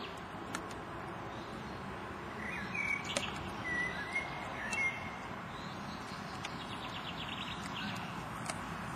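Steady outdoor background noise with small birds chirping: a run of short, wavering calls from about two to five seconds in, and a quick trill near the end.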